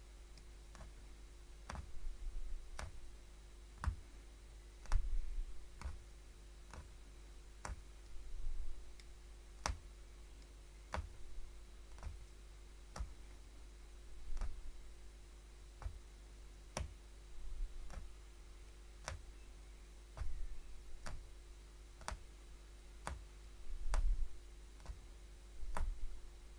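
Punchcraft hollow needle being stabbed through stretched fabric, a sharp click at each punch, about one a second in a steady rhythm.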